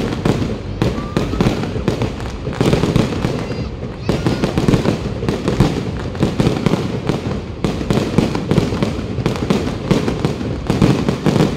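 Aerial fireworks bursting overhead in a rapid, unbroken barrage of bangs and crackles, several bursts a second.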